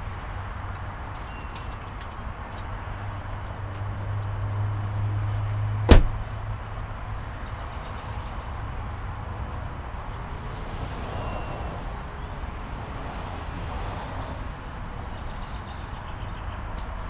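A steady low hum that swells, then one sharp, loud slam about six seconds in, after which the hum stops and a quieter steady background runs on.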